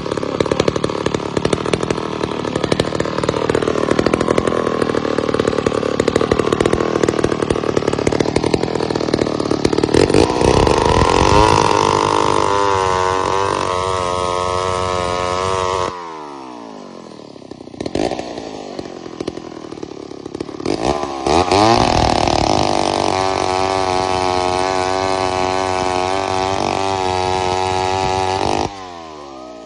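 McCulloch 250 two-stroke chainsaw with a full-chisel skip-tooth chain running hard with a wavering note for about the first ten seconds, as under load in a cut, then revved freely to a high steady pitch. About halfway through the throttle is released and it drops back to idle, then it is revved up high again and dropped back to idle just before the end.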